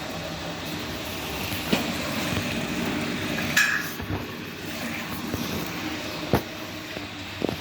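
Whirlpool washing machine running with a steady mechanical rumble, broken by a few sharp clicks or knocks from the drum.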